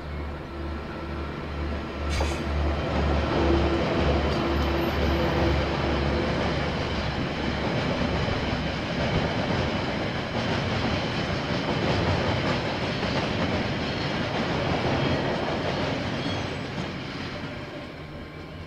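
KiwiRail train passing: a diesel locomotive's engine with a pulsing low hum over the first several seconds, then the steady rumble of the train rolling past, fading near the end.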